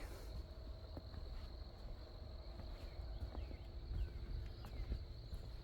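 Quiet outdoor ambience: a steady high-pitched insect drone holds throughout, with a few faint short bird chirps and soft scattered steps over a low rumble.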